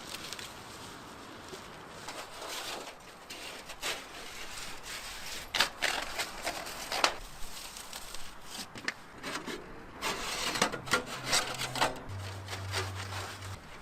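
Irregular rubbing and scraping, broken by several sharp knocks about midway and again near the end.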